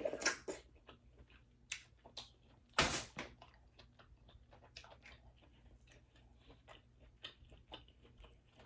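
Close-miked chewing and wet mouth sounds of someone eating boiled shellfish, a series of short clicks and smacks, with one louder, longer sound a little under three seconds in.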